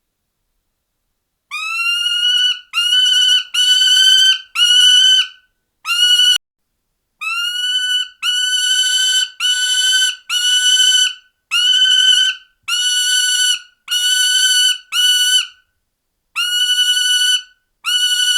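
A bird of prey calling over and over, about fifteen loud, clear calls each under a second long. Each call slides briefly upward and then holds one pitch, and the calls come in uneven runs with short gaps between them.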